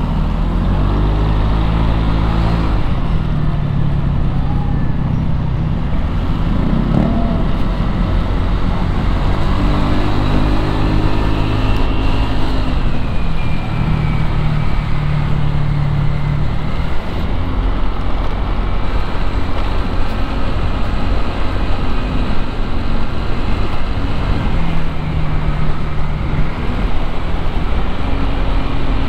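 Motorcycle engine in street traffic: its pitch climbs and drops again several times, as when it pulls through the gears, over a steady wash of traffic noise.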